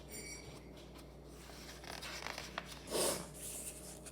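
Faint paper handling, a picture-book page being turned: small clicks and then a short rustle about three seconds in.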